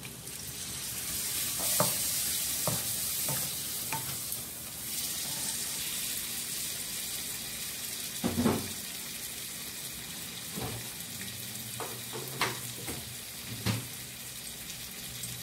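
A wok of frying dried shrimp mixture sizzling, the hiss swelling just after a little water goes into the hot pan. A spatula scrapes and knocks against the granite-coated wok several times as the mixture is stirred, with the loudest knock about eight seconds in.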